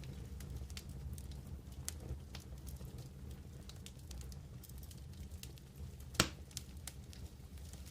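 Wood campfire crackling, with scattered small pops and one sharp, louder pop about six seconds in, over a steady low rumble.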